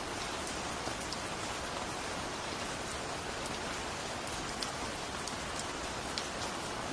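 Steady rain falling, a dense even hiss with scattered sharper drop clicks.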